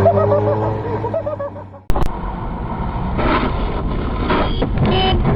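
Car engine running with its pitch rising slowly as it accelerates, cut off abruptly about two seconds in. Road and traffic noise follows.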